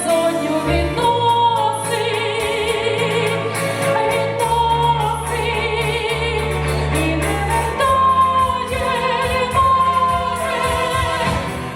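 A woman singing with wide vibrato on long held notes, over instrumental accompaniment with steady bass notes.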